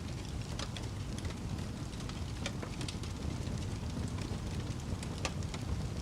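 Wood fire burning in a fireplace: a steady low rumble of flames with scattered sharp crackles and pops, a few louder snaps among them.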